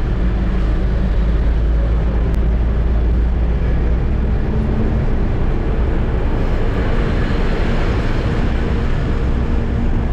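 Eicher truck's diesel engine running with road noise while driving: a steady low rumble, with an engine hum coming up more clearly about four seconds in.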